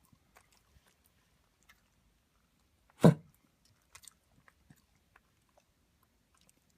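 A dog coughing once, a single short, sharp cough about three seconds in, followed by a couple of faint clicks. It is one cough of a fit in which he coughs every few seconds, at times as if trying to bring something up but unable to.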